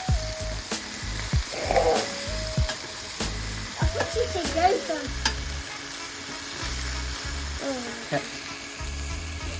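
Meat sizzling on a barbecue grill in a steady hiss, with music playing over it.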